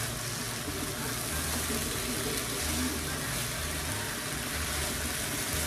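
Stir-fry of noodles, chicken and vegetables sizzling steadily as it pan-fries in a nonstick skillet, stirred with a plastic spatula.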